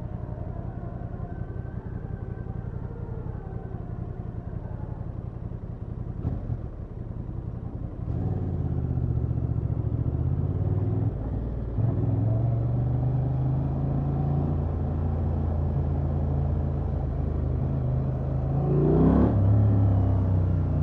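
Honda XL750 Transalp's parallel-twin engine through its stock exhaust, running at low revs, then pulling harder and louder about eight seconds in, with a gear change a few seconds later and a quick rise and fall of revs near the end.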